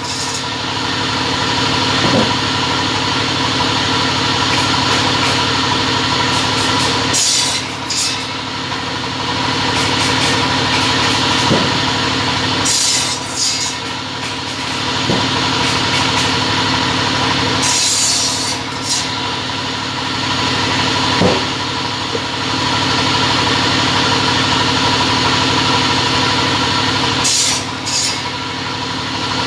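A two-head cutting machine running with a steady motor hum. Short hissing bursts come four times.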